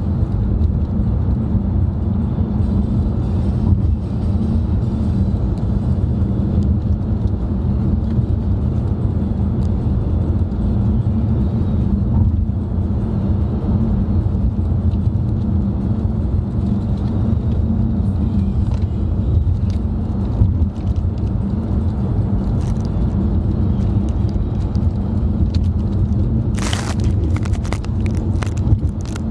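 Road noise heard inside a moving car: a steady low rumble of engine and tyres. Near the end come a brief hiss and a few sharp clicks.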